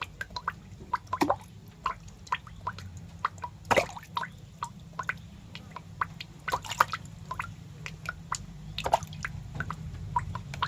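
Irregular wet clicks and small pops, a few a second, over a low steady hum.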